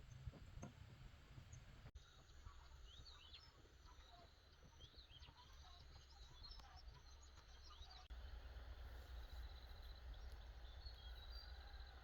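Faint outdoor ambience: a low steady background rumble with small birds chirping, the chirps thickest through the middle, and a thin, high, repeated trill near the end.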